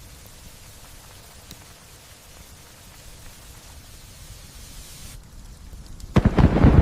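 Steady light rain falling, then about six seconds in a sudden loud clap of thunder breaks into a deep rumble.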